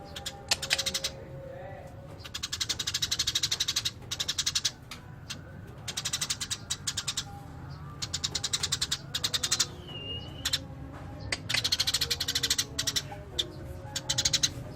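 Eurasian tree sparrows chirping in fast rolling trains: repeated bouts of rapid high chirps, each a second or two long, with short pauses between.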